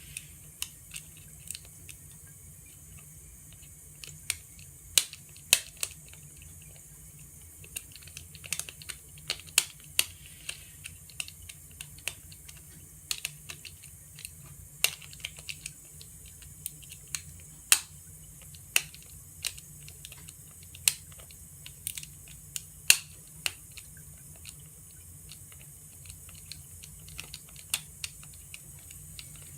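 Moluccan cockatoo chewing on wood with its beak: irregular sharp clicks and cracks, a few of them loud, over a steady low hum.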